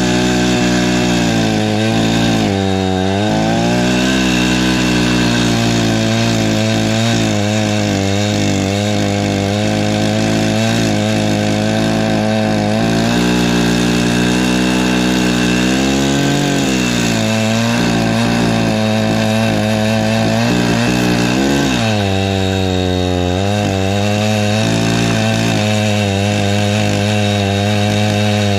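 Perla Barb 84cc two-stroke chainsaw running at high revs while cutting firewood, its pitch dipping briefly under load several times.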